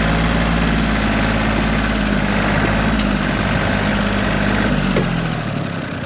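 Tractor engine running steadily with a deep rumble. The rumble drops off and the sound gets quieter about five seconds in.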